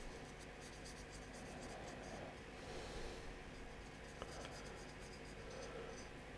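Faint, scratchy scrubbing of a paintbrush's bristles dry-brushing (overbrushing) a miniature waterfall statue, with a small tick about four seconds in.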